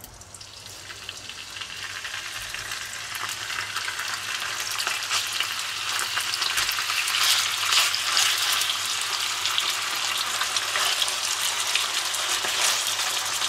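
Raw chicken breast strips sizzling in hot oil in a wok, the sizzle growing louder over the first few seconds as more pieces go in, then holding steady.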